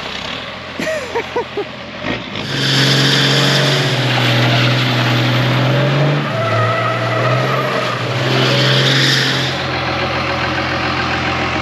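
Vehicle engine revving hard as its tyres spin and slide on wet pavement while doing donuts, surging twice with a loud hiss of tyre spin. A few short knocks come about a second in.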